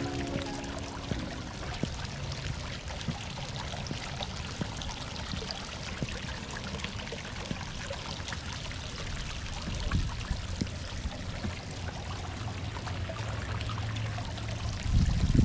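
Water running and trickling steadily, as from a garden fountain or stream, with a few louder low thumps near the end.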